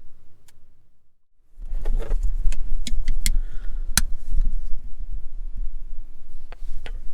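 Steady low wind rumble on the microphone, broken by a short dip about a second in. After that comes a run of sharp clicks and clatters of kitchenware as the sloppy joe is served onto the rolls.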